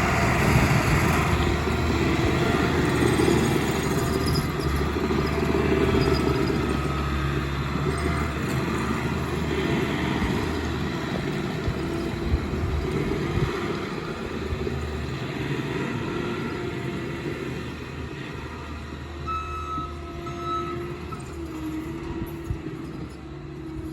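Tracked skid steer running and moving on its tracks, engine running steadily under a dense rattle of the running gear, slowly growing quieter. Short high-pitched squeaks come and go in the last few seconds.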